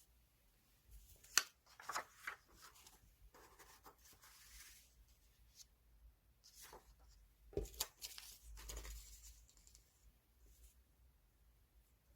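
Paper being handled for scrapbooking: rustling and sliding of magazine paper in two stretches, with a few sharp clicks, the loudest about a second and a half in and two close together past the middle.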